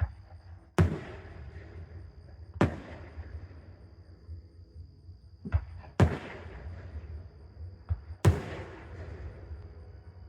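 Aerial fireworks shells bursting overhead: about six sharp booms in ten seconds, each trailing off in an echo.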